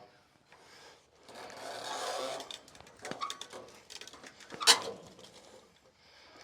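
Log turner's winch being cranked to roll a large post oak log on the sawmill: a run of clicks and a scraping, shifting noise, with one sharp loud knock a little past halfway.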